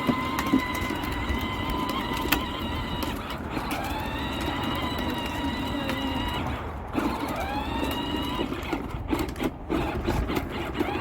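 Electric ride-on toy tractor's motor and gearbox running with a steady high-pitched whine. It cuts out briefly a few times and winds back up in pitch as the pedal is pressed again, with a few sharp clicks near the start.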